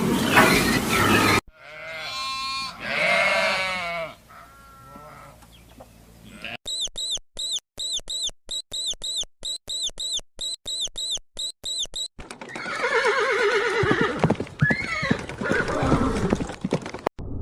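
A string of different animal calls cut one after another. First a loud noisy call, then two pitched calls, then a run of short high chirps at about three a second, then another loud call that ends abruptly.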